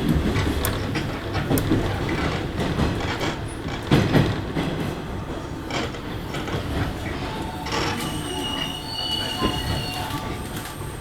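JR West 103-series electric train slowing as it pulls into a station, its wheels clacking over rail joints. From about eight seconds in, a high, steady squeal from the wheels and brakes.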